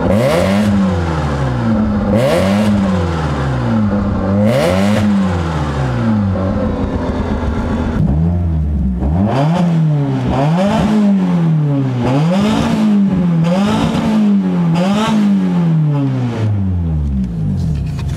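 Mazda RX-7's turbocharged 13B rotary engine free-revving while parked, three blips of the throttle each rising and falling back toward idle. About eight seconds in it cuts to a Nissan SR20DET turbo four-cylinder, revved in a quicker run of about seven short blips.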